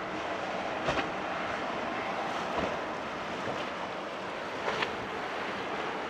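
Steady rush of waves and wind buffeting the microphone, with a boat's engine running, and a few brief sharp knocks about one, two and a half and nearly five seconds in.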